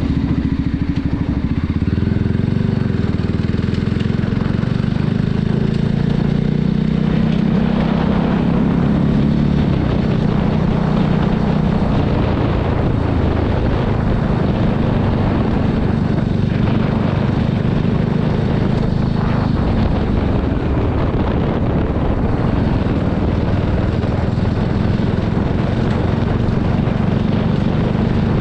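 Voge 300 Rally motorcycle's single-cylinder engine running while ridden, its note shifting in pitch during the first twelve seconds and then holding steady, over a constant rush of wind and road noise.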